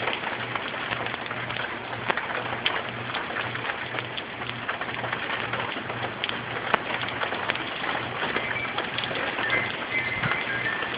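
Tropical-storm rain falling steadily, with many sharp drop ticks, over a faint low hum that pulses about twice a second.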